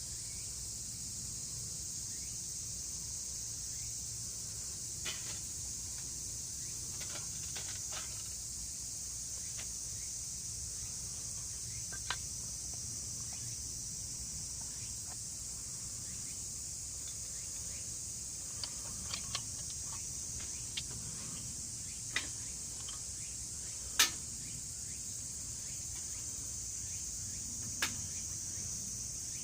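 Steady chorus of insects such as crickets, with about a dozen scattered sharp pops or clicks, the loudest about 24 seconds in.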